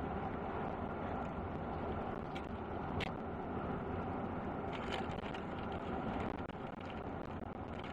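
A truck driving along, a steady noise of engine and tyres on the road, with a few short ticks now and then.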